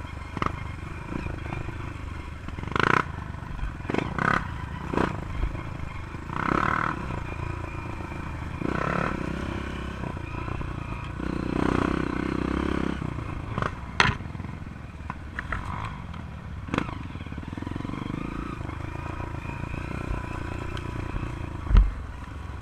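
Honda CRF 230's single-cylinder four-stroke dirt-bike engine running on a muddy trail, its revs rising and falling, with the bike's chassis clattering and knocking over the ground; the sharpest knock comes near the end.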